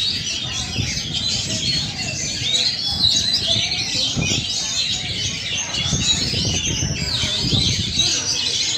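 White-rumped shama singing a fast, unbroken run of varied chirps and whistles.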